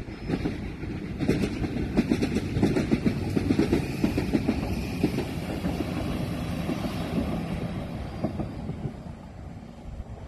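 Class 197 diesel multiple unit passing over a level crossing, its wheels clattering in quick, irregular knocks over the rails. Loudest in the first few seconds, then fading away.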